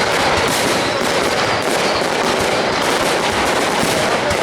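Aerial fireworks going off in rapid, unbroken succession, a dense crackle of bangs with no pause.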